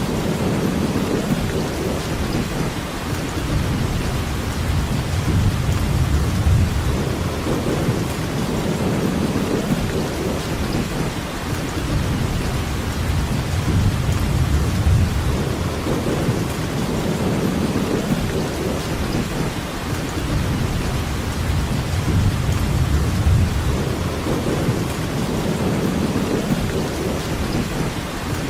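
Steady rainfall, with a low rumble underneath that swells and fades every few seconds.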